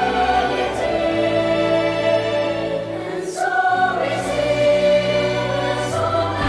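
Background music of sustained, choir-like chords that shift to a new chord every couple of seconds.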